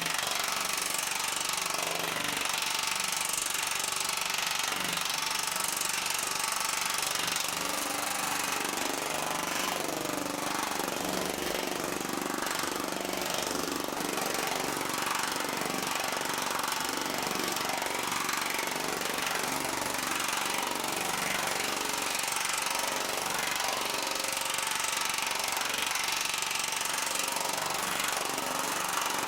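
TM Tech pneumatic power hammer with large reverse dies hammering rapidly and continuously on a sheet of .050 half-hard 1100 aluminum, stretching it into a reverse curve. The air pressure is set at a moderate level to stretch the metal controllably.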